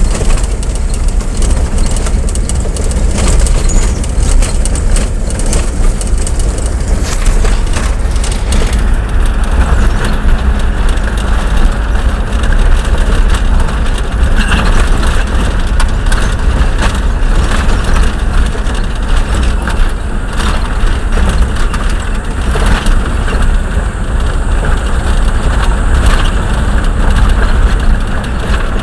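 Motor vehicle on the move: a loud, steady rumble with rough crackling noise throughout.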